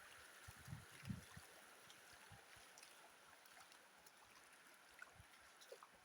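Near silence: faint steady outdoor hiss, with a few low thumps in the first second or so.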